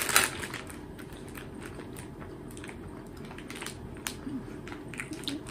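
Simba potato chips being crunched and chewed: a short crisp crunch right at the start, then quieter chewing with scattered small crunches.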